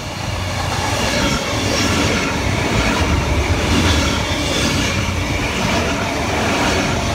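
Eight-car Tangara electric multiple unit passing through the station without stopping: a steady rumble and rush of wheels on rail that builds over the first second or two and then holds.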